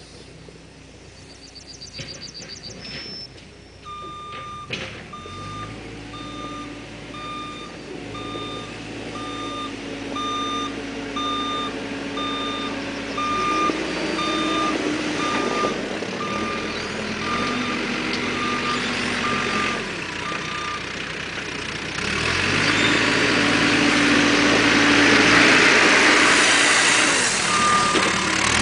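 Caterpillar 432E backhoe loader's diesel engine running, its pitch rising and falling, while its reversing alarm beeps steadily for much of the time. Later the engine runs louder and harder for several seconds, and the beeping starts again near the end.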